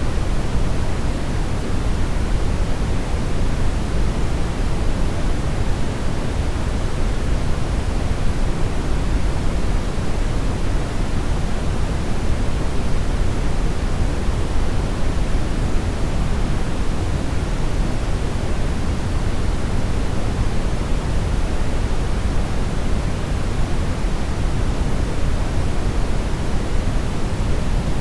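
Steady synthetic brown noise: an even, unchanging rush of noise weighted toward the low end, like a deep hiss.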